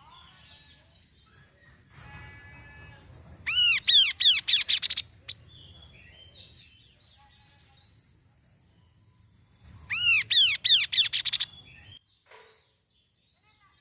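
Kaso-kaso bird singing in two loud bursts of quick, arching whistled notes, the first about three and a half seconds in and the second near the ten-second mark, with softer chirps between them. A thin, steady high whine runs under the song and stops about two seconds before the end.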